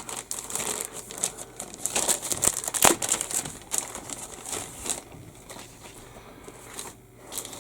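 Crinkling and rustling of thin plastic packaging as plastic model-kit sprues are handled, with irregular small clicks and one sharp click about three seconds in.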